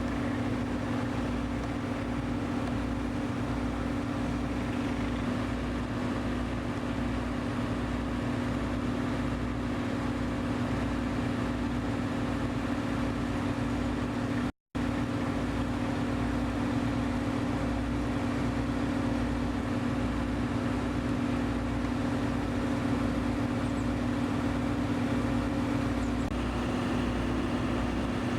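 An engine running steadily at idle, a constant low hum with an even throb beneath it; the sound cuts out for an instant about halfway.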